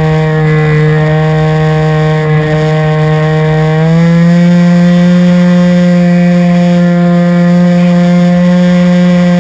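Model airplane engine and propeller running steadily at high speed, a loud buzz that steps up slightly in pitch about four seconds in as the throttle is opened a little, with wind rumble on the microphone.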